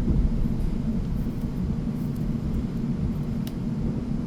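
Steady low rumble of a South Western Railway train running, heard from inside the carriage, with a single faint click about three and a half seconds in.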